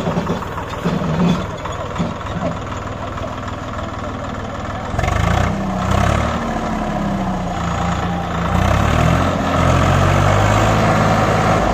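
Swaraj 744 FE tractor's diesel engine running steadily, then from about five seconds in revving louder, its pitch rising and falling over several seconds as it works under load pulling a fully loaded sugarcane trolley through mud.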